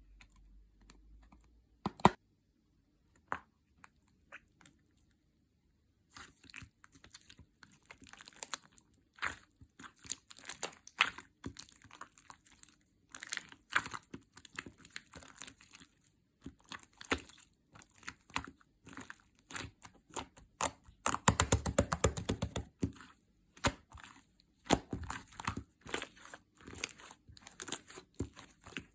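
Hands squishing and stretching iClay foam clay mixed into clear slime, making irregular crackling and popping clicks with a denser stretch of crackles about two-thirds of the way through. The first several seconds are nearly silent apart from a couple of single clicks.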